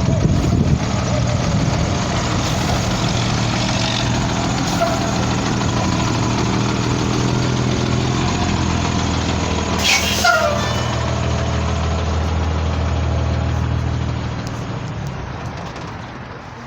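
Diesel engine of a 2001 Blue Bird All American bus idling steadily, with a brief sharp hiss and a falling squeal about ten seconds in; the engine sound fades over the last couple of seconds.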